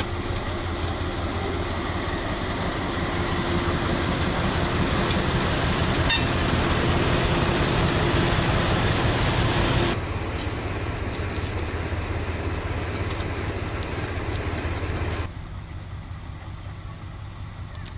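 Train running along the line, a steady deep engine rumble. The sound drops suddenly to a quieter level about ten seconds in and again about fifteen seconds in.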